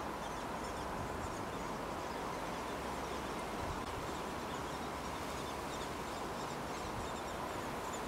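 Steady outdoor background hiss with many faint, high bird chirps scattered throughout, and a faint steady tone underneath.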